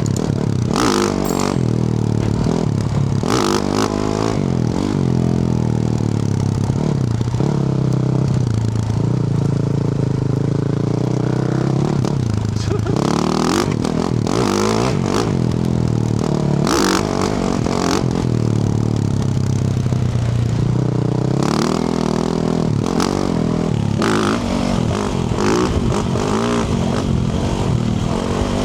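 Yamaha YZ450F's single-cylinder four-stroke dirt-bike engine through a Yoshimura RS-12 exhaust, revving up and dropping back repeatedly as it pulls through the gears on a rough track, with frequent clattering knocks from the bike over the stony surface.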